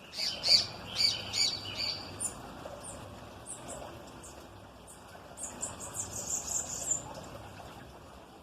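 Small songbirds chirping: a quick cluster of bright chirps in the first two seconds, then a run of thin, very high calls from about five to seven seconds in.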